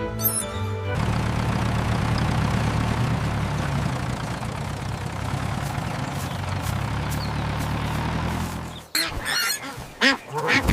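Tractor engine running steadily, stopping about nine seconds in; ducks then quack and honk several times near the end.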